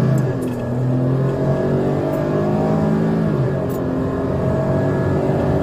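Police patrol car's engine running hard at high speed during a pursuit, its pitch shifting as it drops about three seconds in and then climbs again.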